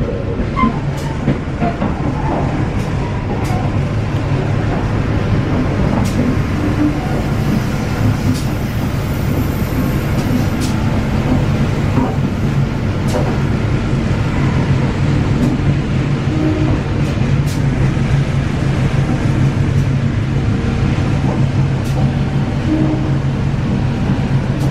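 Passenger train running at speed, heard from aboard a mild-steel economy coach: a steady low rumble from the running gear with scattered sharp clicks.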